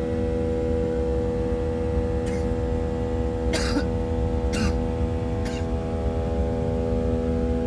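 Airliner cabin noise: a steady low drone with a steady multi-tone hum over it, the unusual sound the passengers say is different from usual. Four short sharp noises cut in over it, at about two, three and a half, four and a half and five and a half seconds.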